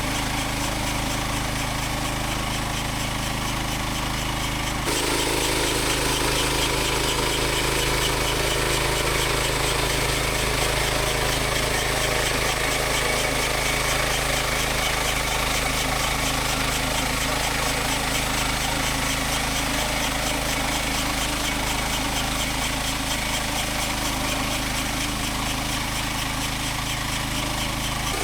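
Portable sawmill's engine running steadily. About five seconds in, the sound becomes fuller and a little louder and holds there to the end.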